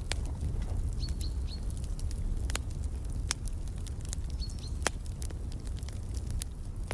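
Wood fire crackling, with scattered sharp pops over a steady low rumble. A small bird chirps in two short quick runs of high notes, one about a second in and one near the middle.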